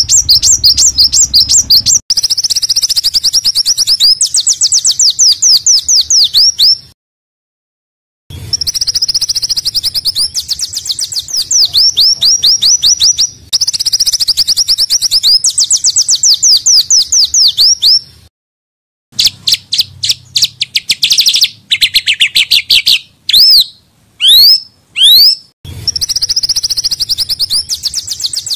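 Recorded small songbirds singing fast, dense strings of high, rapid-fire notes ('tembakan'), in spliced segments broken by two short silences. Near the end a few separate sweeping whistles come before the rapid trilling resumes.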